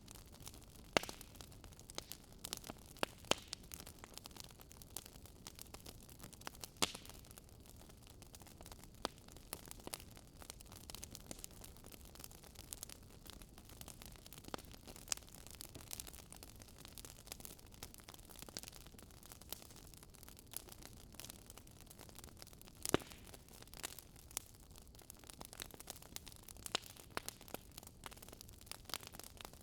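Fire crackling: a soft steady hiss with irregular sharp pops and snaps scattered throughout.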